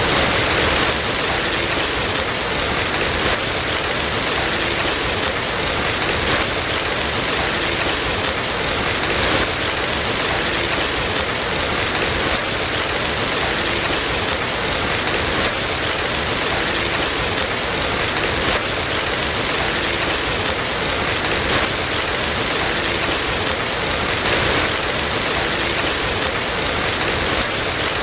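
Steady, even rain falling, with a few faint crackles from a wood fire in a fireplace.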